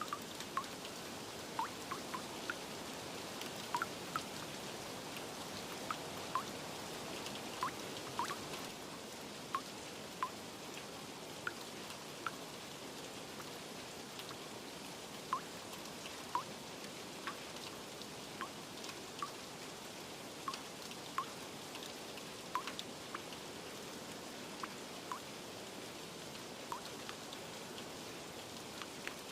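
Steady rain hiss with scattered individual drops tapping and dripping at irregular intervals.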